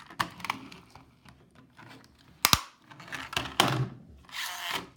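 Hard plastic clicks and knocks from a toy Hess truck being handled, with one sharp snap about two and a half seconds in and a short rustling scrape near the end.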